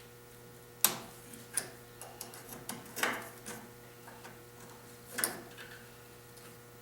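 Hand tools working on a bolt on a small engine: irregular sharp metal clicks and clinks, the loudest about a second in, with faint ticking between them.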